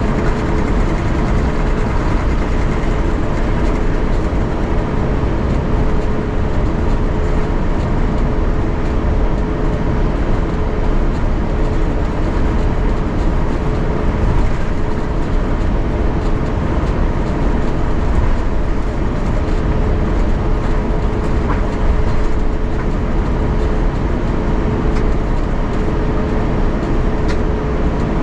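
Steady cabin noise inside an Airbus A350-900 taxiing after landing, its Rolls-Royce Trent XWB engines at idle. A low rumble runs under a steady mid-pitched hum.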